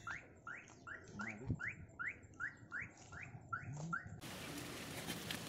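A bird repeating a short rising call, about two and a half times a second, which stops abruptly about four seconds in. Faint outdoor hiss with a few light clicks follows.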